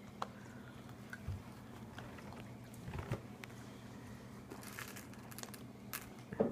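Gingerbread and candy being chewed and crunched, a few scattered crunches and clicks over a low steady hum.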